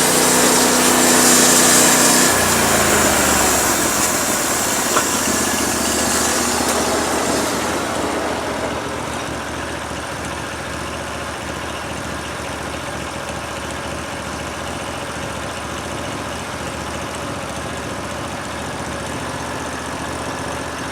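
Portable band sawmill's gas engine dropping from cutting speed to idle about two seconds in. The high hiss of the spinning band blade fades away over the next several seconds. The engine then idles steadily.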